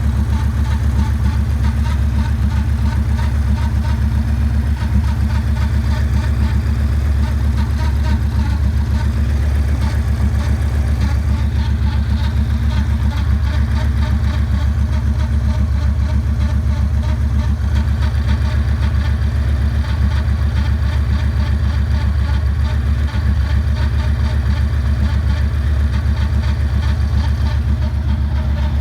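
2009 Yamaha Raider's air-cooled V-twin engine idling steadily, with a strange noise whose cause the owner does not know.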